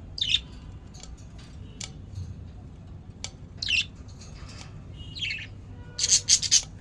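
Budgerigars calling: three separate short, harsh squawks that sweep down in pitch, then a rapid run of sharp chirps starting near the end.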